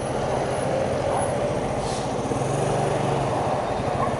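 Small 50cc motorcycle engine running steadily while riding, with wind noise on the microphone.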